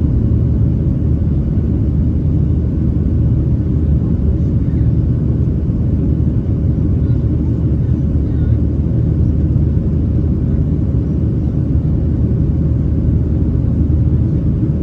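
Cabin rumble of a Boeing 737-700's CFM56-7B turbofan engines at climb power, heard from a window seat over the wing: a steady low roar with a faint constant hum above it.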